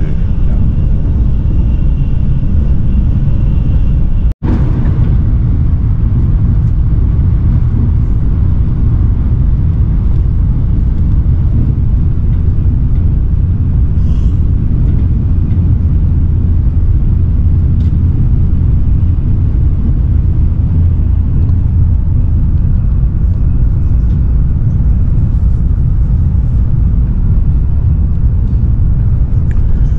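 Shinkansen bullet train running at speed, heard from inside the passenger car as a steady low rumble. The sound cuts out for an instant about four seconds in.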